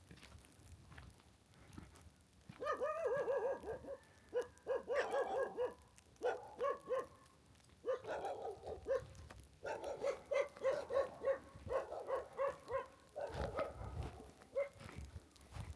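A dog barking in repeated runs of short, quick barks, about five a second, with brief pauses between the runs.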